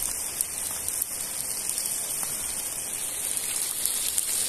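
Catfish pieces deep-frying in a pan of hot oil: a steady sizzle with scattered small pops.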